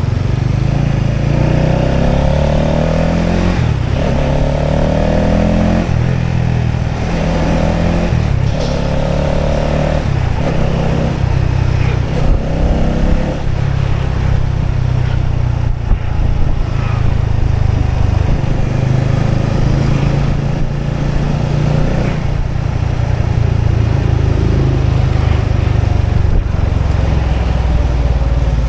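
Motorbike engine running while riding, the pitch rising several times in short sweeps about every two seconds through the first half, then running more steadily at lower pitch.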